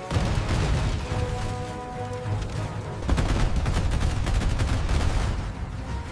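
Soundtrack music with a heavy low rumble, joined from about three seconds in by rapid bursts of machine-gun-like gunfire sound effects.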